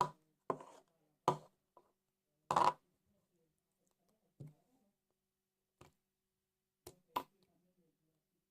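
Homemade liquid slime being squeezed and handled: a string of about eight short squishes and pops at irregular intervals.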